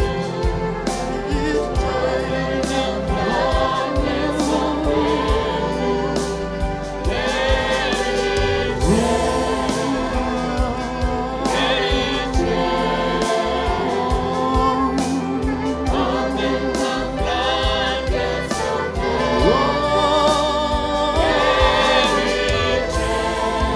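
Gospel worship music: a choir singing over a band, with steady drum hits and a sustained bass.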